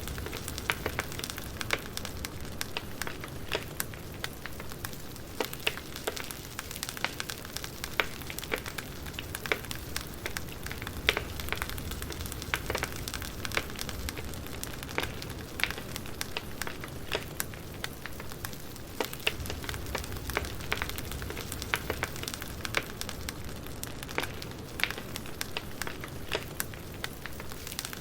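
Burning firewood crackling steadily, with many irregular sharp pops and snaps over a low hiss.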